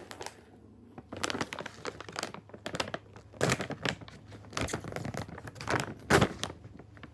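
Plastic snack bag crinkling as it is handled and pulled open, in irregular bursts, loudest about six seconds in.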